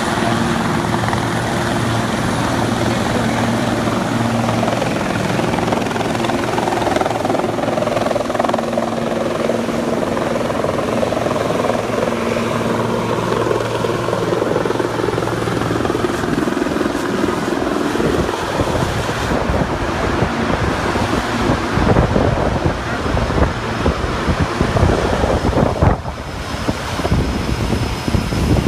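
Helicopter flying, its rotor and engine a steady hum for about the first half. After that the sound turns rough and gusty.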